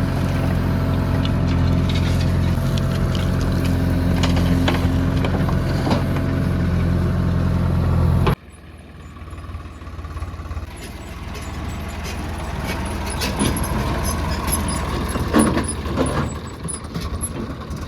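Heavy diesel engine of a backhoe loader running steadily. About eight seconds in it gives way abruptly to a quieter, lower rumble with scattered clattering and scraping.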